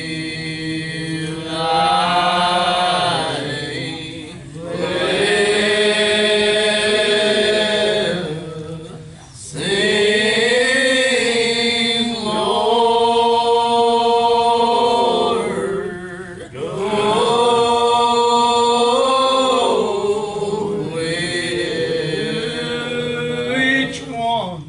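Hymn singing: long held notes in phrases of a few seconds each, with brief breaks for breath between them.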